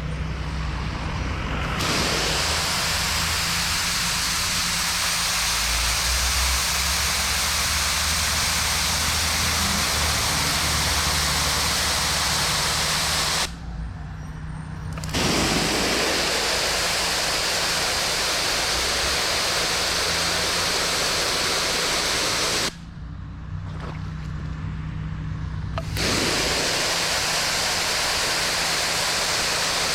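Pressure washer wand spraying water onto concrete, a loud steady hiss that stops twice, about 13 seconds in and again about 23 seconds in, each time for a second or three before the trigger is pulled again. A steady engine hum runs underneath throughout.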